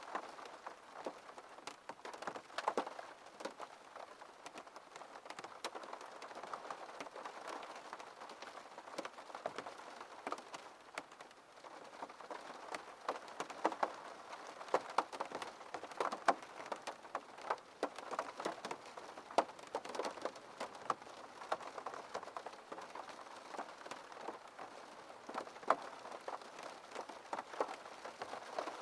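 Rain falling on a window: a steady patter with many separate drops tapping the glass.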